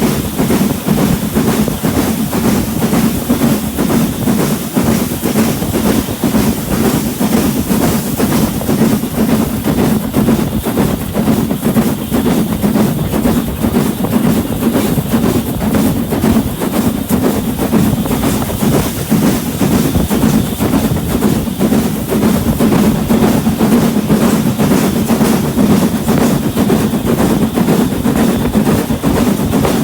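Train running along the track: a steady loud rumble with continual clatter of wheels and running gear on the rails.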